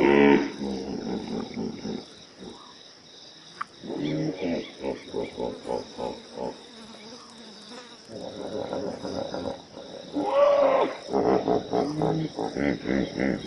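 Lion growling and roaring in three bouts of pulsing calls, with quieter gaps between them, over a steady high insect drone.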